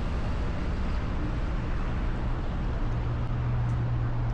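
Steady engine hum with rushing road noise from a motor vehicle; the hum rises in pitch about three seconds in.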